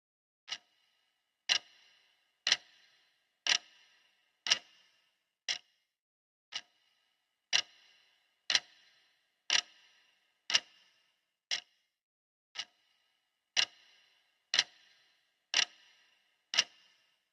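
Clock ticking steadily once a second, each tick a sharp click, some louder with a short ring and others softer.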